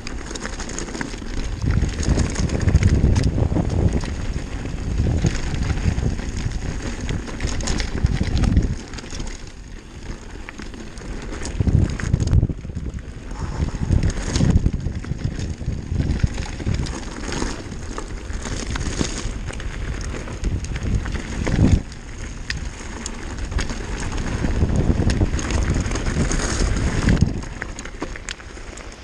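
Wind buffeting the microphone of a downhill mountain bike rider's camera, mixed with tyre noise and rattles from the bike. The rush swells and drops several times, with a few sharp knocks.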